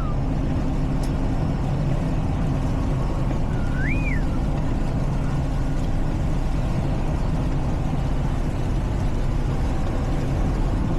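Steady low drone of a semi-truck's engine and road noise heard inside the cab. A short high chirp rises and falls once about four seconds in.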